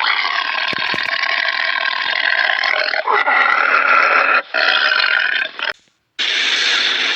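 Animal calls, several short clips joined with abrupt cuts; the sound stops dead near the end and a different call starts.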